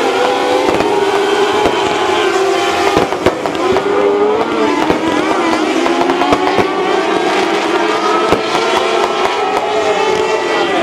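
Several mini sprint race car engines running together on a dirt oval, their pitches rising and falling as they are worked around the track, with frequent sharp pops and crackles.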